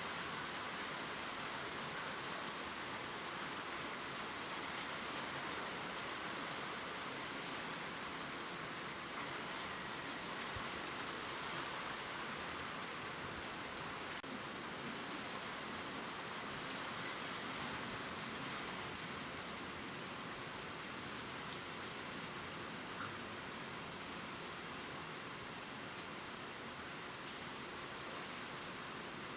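Steady gentle rain pattering on leaves, with scattered faint drop ticks.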